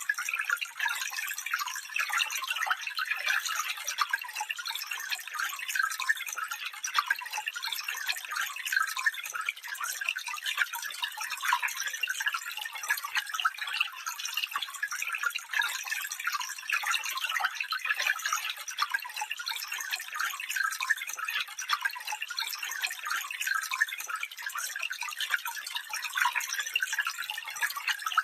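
Small stream trickling and babbling over stones, steady and even, with a bright splashing texture and no low rumble.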